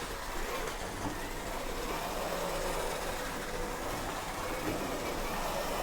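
Small electric remote-control car driving: the motor's faint steady whine, wavering a little in pitch, over the noise of its wheels.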